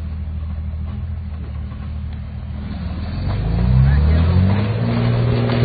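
Truck engine running steadily, then revving up about three seconds in, its pitch rising and the sound growing louder.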